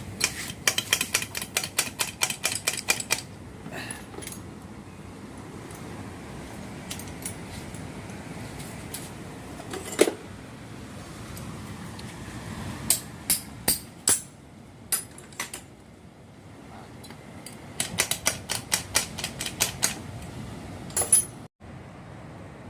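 Quick metallic clicks and taps from tools and metal parts being worked on an outboard motor's gearbox, coming in rapid clusters near the start, about two-thirds through and near the end, with one sharp knock near the middle.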